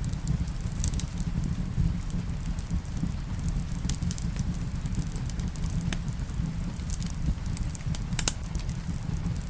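Wood fire crackling in a fireplace: a handful of sharp pops and snaps scattered over a steady low rumble.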